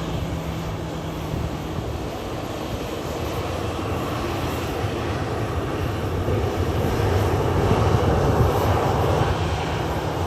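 Jet airliner engines rumbling as a plane passes, the noise swelling to a peak about eight seconds in and then easing slightly.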